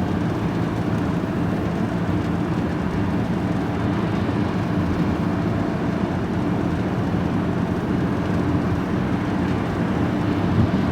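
Vehicle engine and road noise heard from inside the cab while driving, a steady low drone that holds an even pitch throughout.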